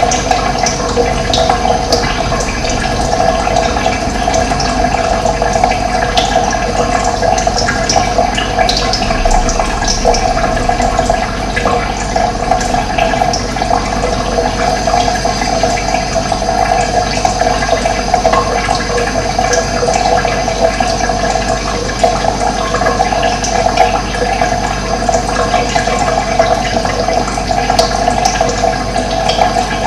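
Steady rush of running water, even and unbroken, with scattered short bird chirps above it.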